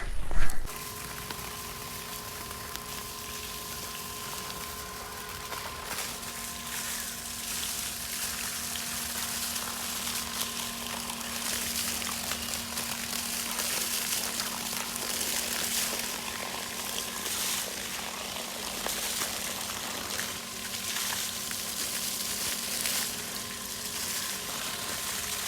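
Wood and palm-leaf fire burning over the cooking pit, a steady hiss with light crackle. A faint steady hum sits underneath.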